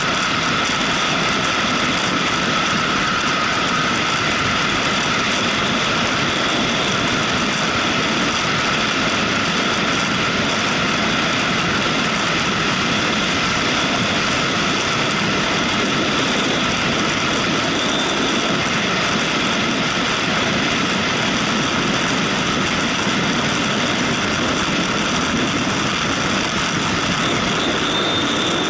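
Motorcycle under way at a steady pace, its engine and road noise making one continuous drone that hardly changes.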